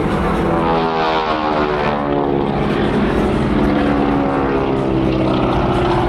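Radial engines of Boeing Stearman wing-walking biplanes flying past, a loud propeller drone whose pitch drops between about one and three seconds in as they go by, then holds steady.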